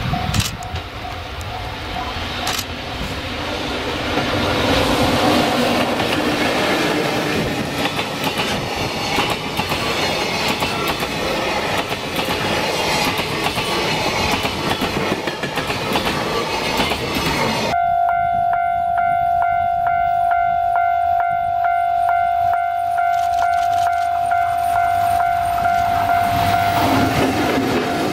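Container freight train hauled by an EF65 electric locomotive passing close by: a loud, dense rumble and rattle of wagons rolling past. About two-thirds of the way in, the sound changes abruptly to a regular clickety-clack of wheels over rail joints, with a steady high tone running underneath.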